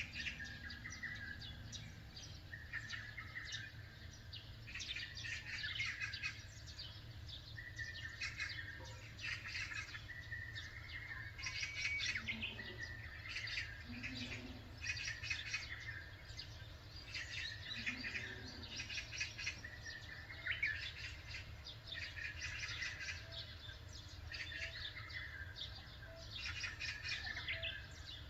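Several small birds chirping and singing in short repeated phrases, overlapping one another, over a steady low rumble.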